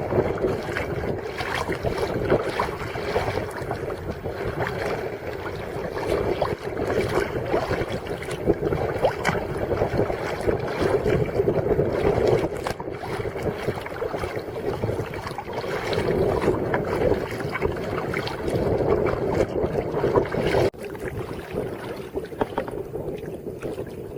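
Water splashing and lapping as a kayak is paddled, with wind noise on the microphone. The sound drops somewhat near the end.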